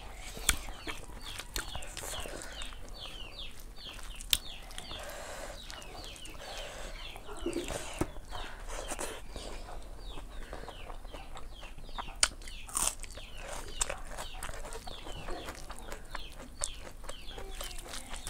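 Birds chirping: many short, falling high chirps in quick succession throughout, with a few sharp clicks and smacks from hands working through the food.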